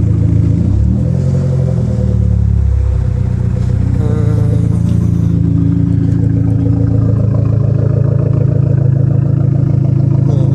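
Big-turbo Dodge SRT-4's 2.4-litre turbocharged four-cylinder engine with its revs settling back down in the first few seconds, then idling steadily.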